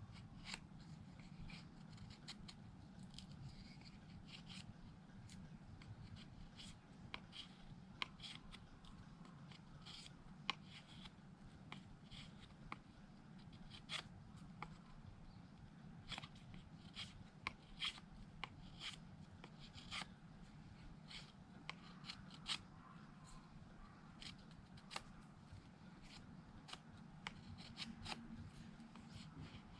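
Mora knife blade shaving thin curls down a wooden stick to make a feather stick: quiet, irregular short scraping strokes, a few every second or two.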